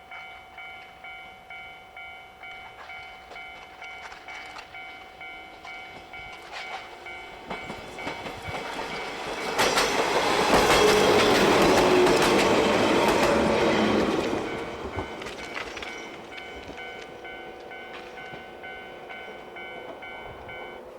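A 115-series electric train passes, its wheels clattering over the rail joints; the noise builds, is loudest from about ten to fourteen seconds in, then fades. Sharp crackles from the pantograph arcing on a frosted overhead wire cut through it. Before and after the pass a fainter ringing pulses at about two beats a second.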